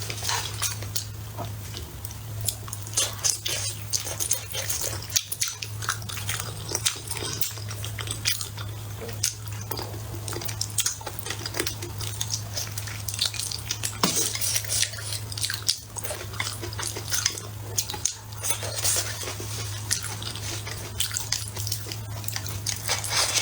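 Biting and chewing braised pork ribs, a steady run of wet smacks and crunchy clicks, over a constant low hum.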